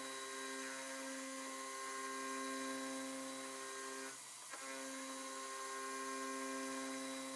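Home-built CNC milling machine running a milling job: a steady motor whine on a few fixed pitches, which drops out for about half a second around four seconds in and then resumes.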